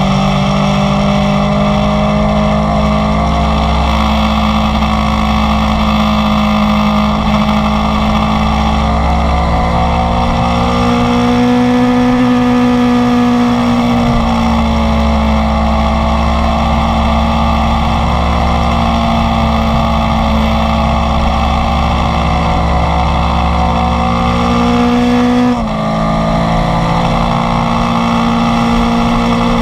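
Inline-four sport motorcycle engine pulling steadily at speed, its pitch slowly rising and falling. About three-quarters of the way through, the pitch drops suddenly and then climbs again, as in a quick upshift.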